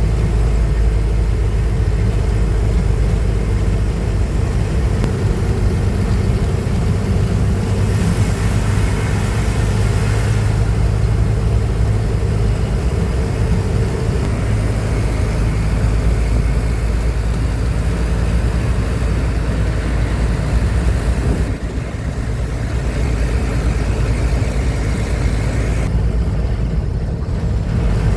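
Truck engine running steadily with a deep drone, mixed with road noise, dipping briefly about two thirds of the way through.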